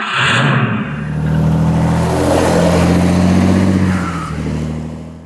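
Loud motor vehicle engine running at a steady pitch, fading out near the end.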